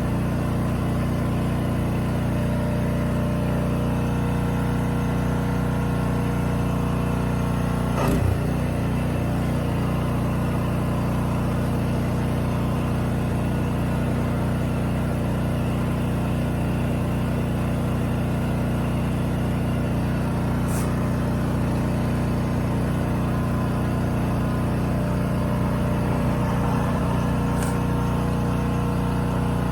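An engine running steadily at an even pitch, with a short knock about eight seconds in and a couple of faint clicks later.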